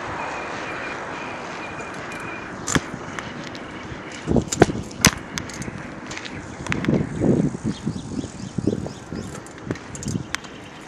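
Bicycle being ridden: rolling noise that dies away, then scattered sharp clicks, rattles and knocks from the bike and its parts.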